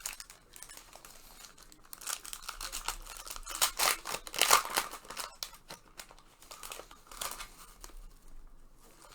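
Plastic trading-card pack wrappers crinkling and being torn open as packs of Panini Prizm basketball cards are opened, in irregular rustles and crackles that are loudest around four to five seconds in.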